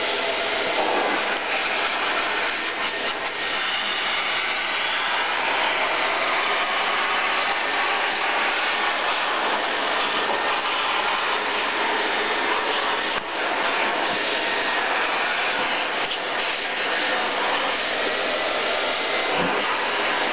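Vacuum cleaner running steadily, a continuous rushing noise, with a brief dip about thirteen seconds in.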